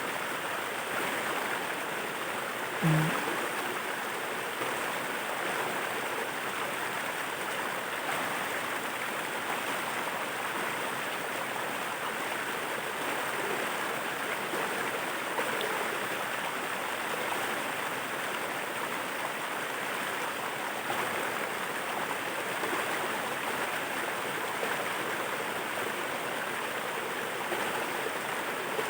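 Steady rushing water of a waterfall, an even wash of sound with no let-up. About three seconds in there is one brief low thump.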